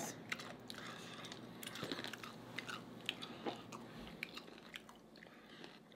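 Faint chewing and mouth sounds of people eating shrimp ceviche with tostada chips, with scattered small crunches and clicks throughout.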